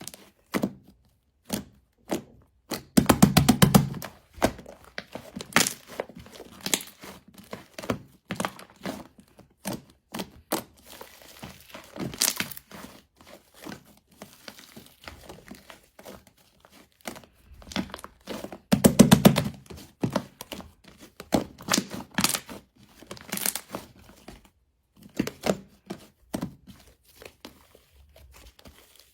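A fluffy 'cotton candy' slime being squished, poked and stretched by hand, making a run of soft crackles, clicks and sticky pops. Two longer, louder bursts of dense crackling with a low squelch come about three seconds in and again about two-thirds of the way through.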